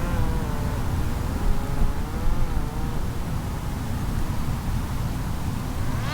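A Parrot Disco fixed-wing drone's electric motor and pusher propeller whining in flight, the pitch drifting up and down over a steady low rumble.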